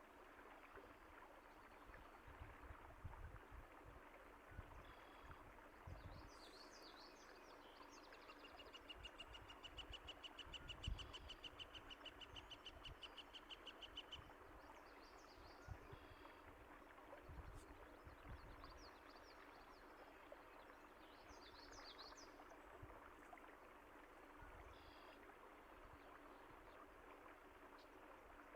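Faint running water from a stream, with birds chirping now and then. A fast, even bird trill lasts about five seconds in the middle, and a few low thumps come and go.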